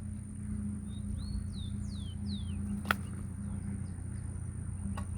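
A small bird chirping: a quick run of about five short falling whistles a second or two in, over a steady low hum, with a sharp click about three seconds in and another near the end.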